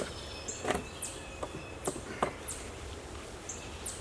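Wooden knocks and clunks of a honey super being lifted and shifted on a beehive, four sharp ones in the first two and a half seconds, the first the loudest. A small bird chirps over it with short, high, falling notes repeated every half second or so.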